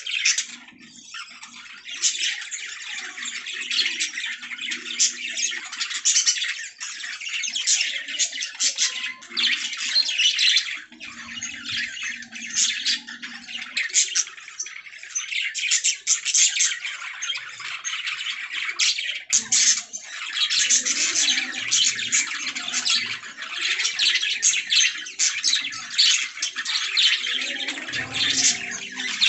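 A flock of budgerigars chirping, warbling and chattering nonstop in rapid, overlapping calls, with occasional sharp squawks.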